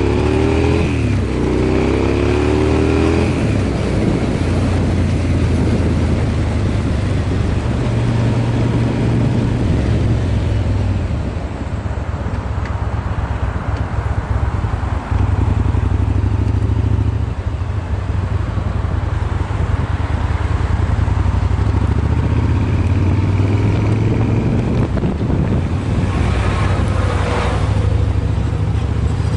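Yamaha BT1100 Bulldog's V-twin engine running through LeoVince SBK silencers: a loud, deep exhaust note that rises in pitch in the first few seconds and briefly drops off a couple of times midway.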